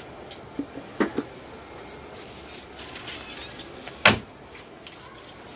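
A few short knocks and clicks over a steady background hiss, with one louder, sharper knock about four seconds in.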